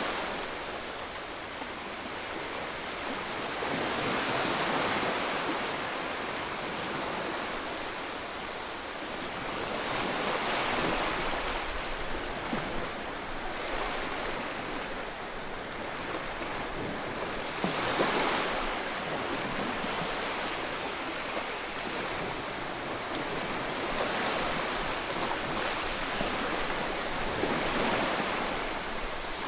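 Ocean waves breaking and washing ashore, the surf rising and falling in swells every several seconds, loudest about eighteen seconds in.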